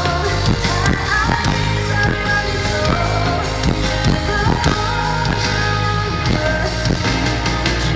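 Live band playing a pop ballad over a concert sound system, with a steady drum beat and bass under a melodic line.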